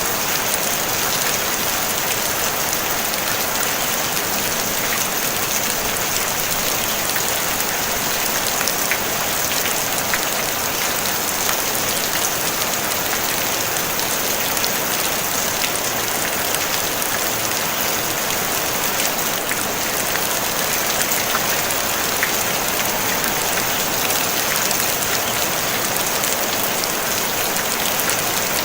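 Steady rain falling on a tin roof: a dense, even hiss flecked with the ticks of individual drops, with no thunder.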